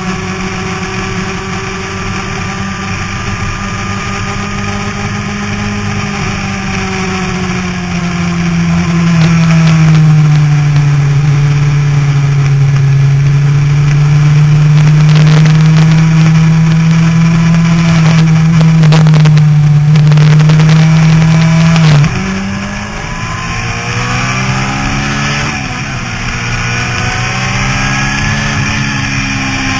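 Motorcycle engine heard from an onboard camera lapping a race track. It holds a steady, loud note under throttle for a long stretch, then drops off sharply about two-thirds of the way through as the throttle closes. The revs then rise and fall several times.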